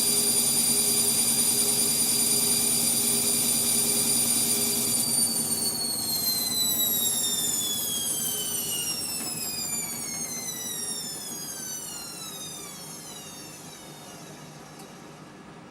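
Indesit MTWC71252WUK washing machine's drum spinning with a steady high motor whine, then spinning down from about five seconds in, the whine falling in pitch and fading until it stops at the end. The spin never reaches the full 1200 rpm: the machine's balance function cut it short.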